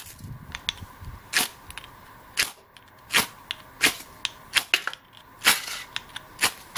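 Ferrocerium rod scraped hard with a striker: about eight short, sharp scrapes, roughly one a second, throwing sparks onto a bird's-nest tinder bundle that is not yet catching.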